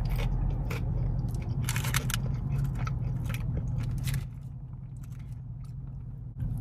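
Close-up chewing and crunching of lemon pepper fries, with many short sharp crunches scattered through. A steady low hum runs underneath and drops in level about four seconds in.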